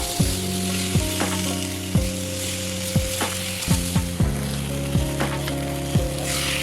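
Food sizzling as it fries in a pan, a steady hiss that swells near the end. Background music with sustained bass notes and a kick drum about once a second plays with it.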